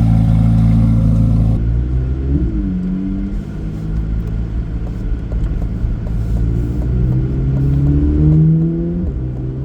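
2024 Corvette Z06's flat-plane-crank V8 running through a modified exhaust. It holds a steady note, then rises in pitch as the car pulls away from a stop, dropping at a gear change about two and a half seconds in and again near the end.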